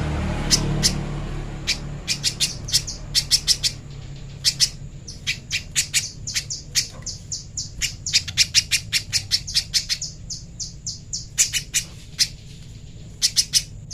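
Spiderhunter (pijantung pisang) calling: rapid series of short, sharp, high chips, repeated in bursts of several notes a second with brief pauses between, over a low steady hum.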